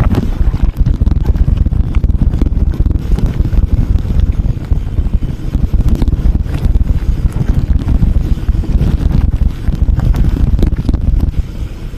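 Wind buffeting the microphone of a moving vehicle: a loud, fluttering low rumble with no clear brake squeal.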